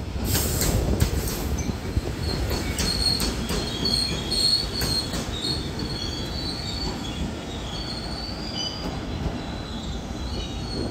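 Taiwan Railway EMU500-series electric commuter train rolling into a station. A few sharp wheel clicks come in the first two seconds, then a broken, high wheel squeal over the running rumble, which slowly fades as the train draws away down the platform.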